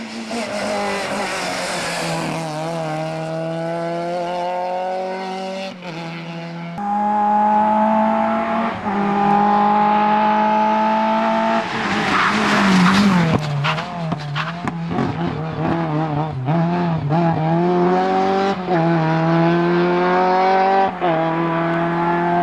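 VW Golf Mk2 rally car's engine at hard acceleration, its note climbing and then dropping at each upshift several times. In the middle the revs waver and fall through a corner, with a brief hiss of tyre noise, before it pulls hard up through the gears again.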